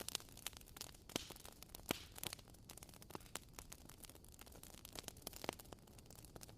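Wood fire crackling: irregular sharp snaps and pops, several a second, over a faint soft hiss, with two louder pops at about one second and two seconds in.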